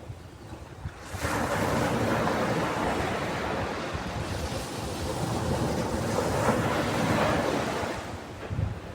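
Ocean waves on a beach: a wave breaks and washes in about a second in, rushing for several seconds before it ebbs away near the end.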